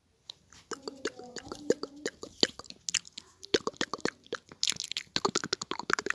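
Close-microphone ASMR trigger sounds: a rapid, irregular series of sharp clicks, taps and pops, starting right after the intro music stops.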